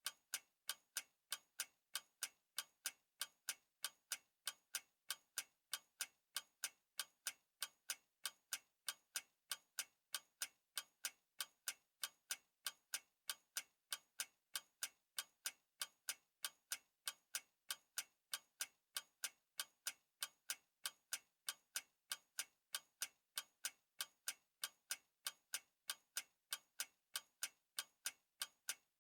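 A clock ticking: steady, evenly spaced sharp ticks.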